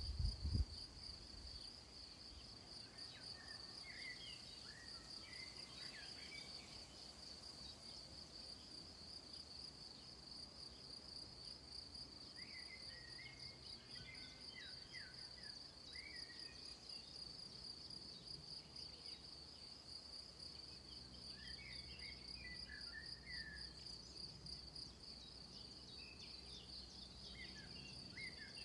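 Faint summer soundscape: insects trilling steadily in a high, fast-pulsing tone, with birds chirping in short bouts several times. A brief low thump right at the start.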